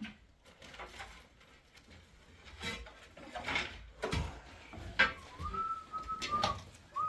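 Scattered knocks and clatters, the sharpest about five seconds in, then a high, steady whistle held for about a second and sounded again briefly near the end.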